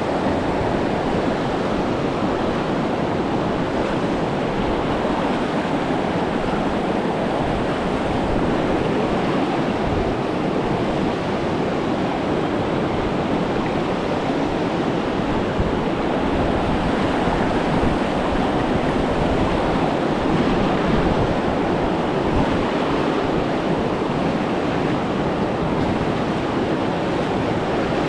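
Steady rushing of river water through rapids.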